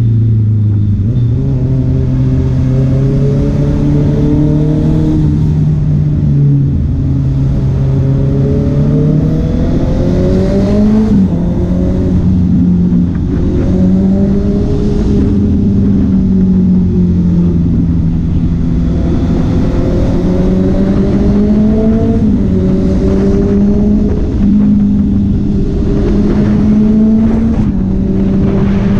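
Honda CB650R's inline-four engine and exhaust running under way, the engine note repeatedly climbing and dropping back as the throttle is worked.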